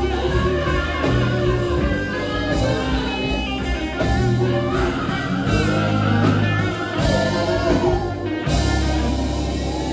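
Live gospel band playing an instrumental passage: electric guitar over low bass notes.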